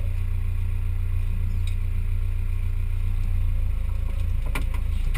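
Off-road 4x4's engine running steadily with a low rumble, and a short clatter about four and a half seconds in.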